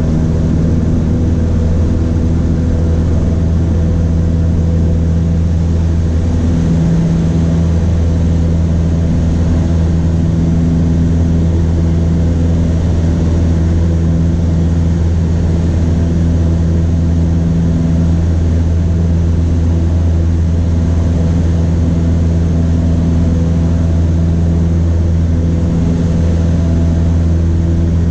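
Cessna 152's four-cylinder Lycoming O-235 engine and propeller running at steady power, a loud even drone.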